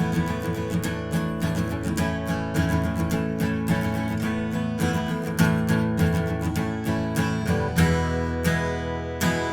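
Acoustic guitar strummed in a steady rhythm, an instrumental passage of the song, changing chord about eight seconds in.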